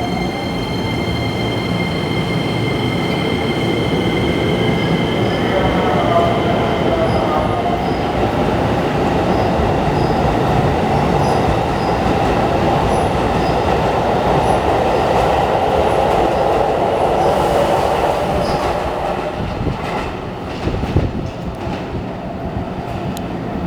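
Hankyu electric train pulling into the platform, its motors whining and its wheels and brakes squealing as it slows, the rumble easing off about 19 seconds in, followed by a few sharp clicks as it comes to a stop.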